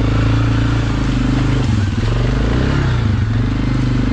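ATV engine running under throttle while riding, its pitch dipping briefly twice as the throttle eases and then picking back up.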